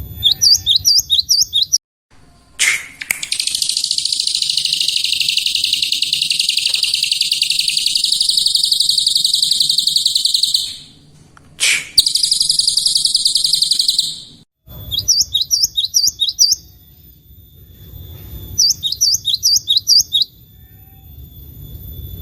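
Songbirds singing: bursts of fast, repeated high chirps, then a long, dense buzzing trill that breaks off briefly about 11 seconds in, then more short bursts of quick chirps. The sudden silent breaks sound like recordings of different birds spliced one after another.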